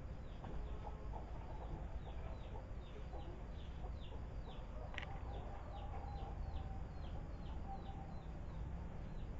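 Birds chirping: a steady run of short, high, falling chirps, two or three a second, over a low steady rumble, with one sharp click about halfway through.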